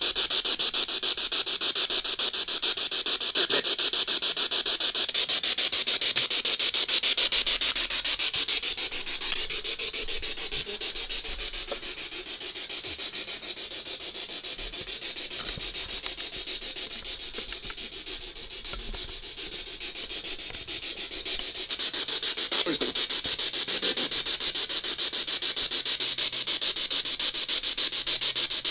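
Spirit box radio sweeping through stations: a steady hiss of static with a fast, choppy stutter. The hiss drops somewhat in the middle and comes back louder about three quarters of the way through.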